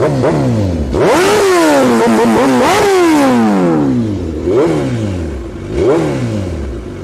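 Sportbike engine being revved in repeated throttle blips, pitch climbing fast and then falling back. There are two big revs in the first three seconds, followed by shorter blips about every second and a half.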